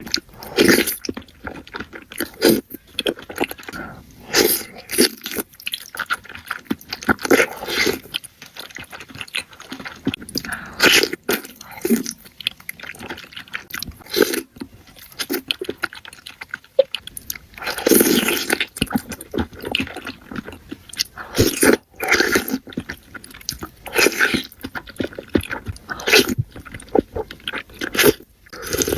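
A person biting and chewing food, mukbang-style, with irregular bites and chews every half second to a second.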